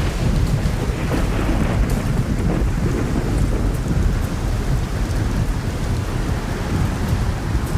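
Steady heavy rain, with a low rumble under it that swells at the start and carries on throughout.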